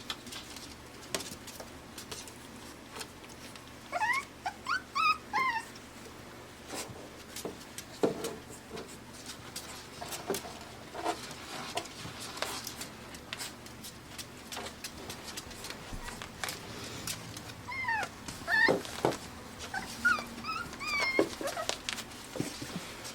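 Five-week-old Pembroke Welsh Corgi puppies whimpering and yipping in two short runs of high, rising and falling cries, a few seconds in and again near the end. Small clicks and knocks come in between.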